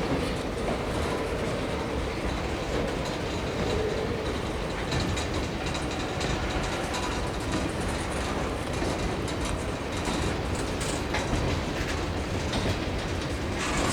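CSX freight train cars rolling past, a steady rumble of steel wheels on rail with some clicking over the joints.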